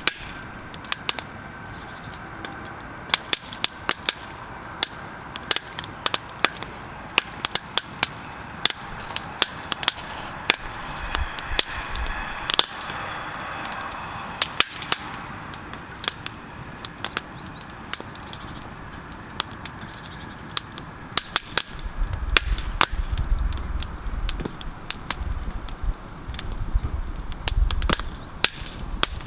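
Wood campfire crackling, with many sharp, irregular pops and snaps over a steady hiss. A low rumble joins in for the last several seconds.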